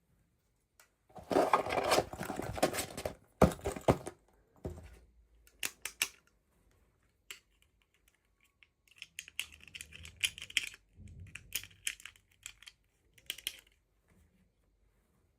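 Toy packaging being unwrapped by hand: about two seconds of loud rustling and tearing about a second in, then scattered clicks and small rustles.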